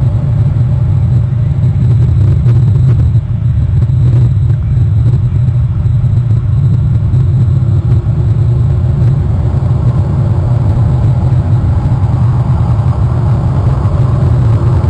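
Steady, loud low rumble with no distinct calls or other events.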